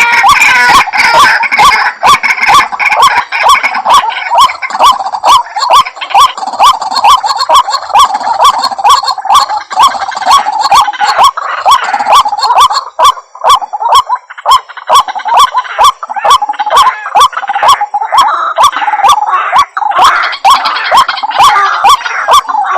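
White-breasted waterhen calling: a loud, harsh, rapidly repeated call of several notes a second, going on without a break, as played from a lure recording to call the birds in.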